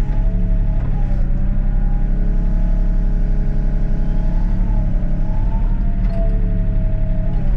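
Diesel excavator engine running steadily, with a higher whine that bends up and down in pitch as the hydraulics are worked.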